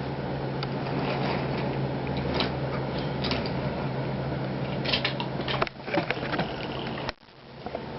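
Small electric motor running steadily with a low hum, cutting out a little over two-thirds of the way through, followed by a few light clicks and knocks.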